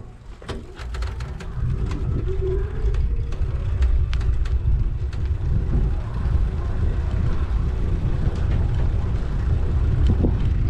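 Low wind and road rumble from a GoPro riding on a bicycle, with scattered sharp clicks and rattles. The rumble grows louder over the first two seconds, then stays steady.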